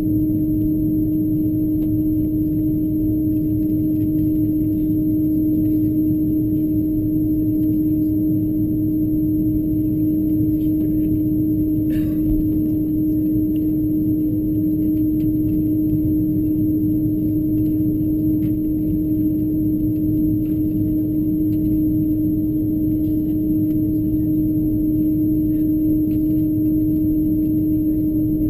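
Steady cabin noise of an Airbus A330-223 taxiing with its engines at idle: a constant low hum with a steady droning tone over it, and a faint click about twelve seconds in.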